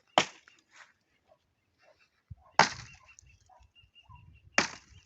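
Dry wood cracking sharply three times, about two seconds apart, as logs and branches are handled in a pile of felled tree debris.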